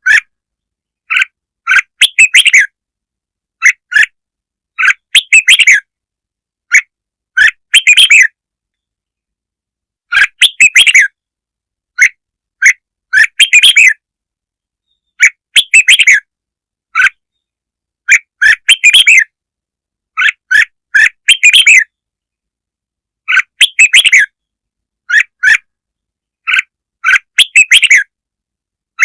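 Red-whiskered bulbul song: loud, short chirping phrases repeated in clusters every second or two, with clean silent gaps between them. It is a lure recording of the kind played to excite a decoy bulbul.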